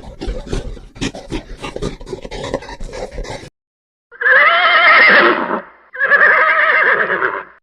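A rapid, irregular clatter of knocks, then a short gap, then a horse whinnying twice, each neigh about a second and a half long with a wavering pitch.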